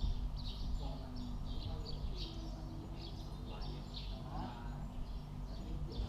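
Birds chirping in short, repeated calls over a steady low background hum.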